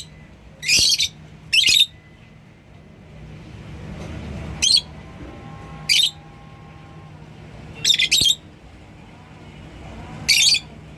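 Lovebirds giving short, shrill squawks: about seven sharp calls at uneven gaps of one to two seconds.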